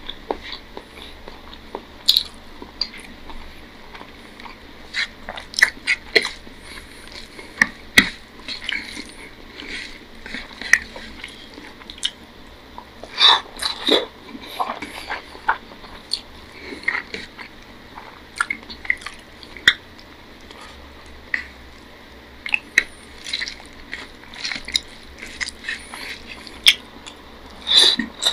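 Close-up eating sounds of rice, egg curry and fish eaten by hand: chewing with irregular mouth clicks and smacks, and a cluster of louder smacks about halfway through and again near the end.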